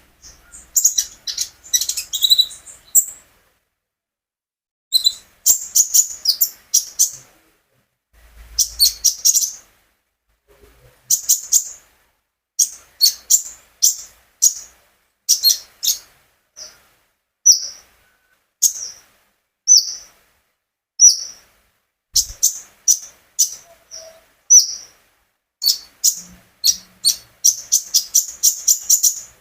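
A konin songbird singing in full voice, in quick runs of sharp, high chirps broken by short pauses of a second or two.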